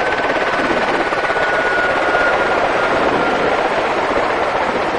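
Helicopter turbine and rotor running steadily, with a high turbine whine that sags slightly in pitch.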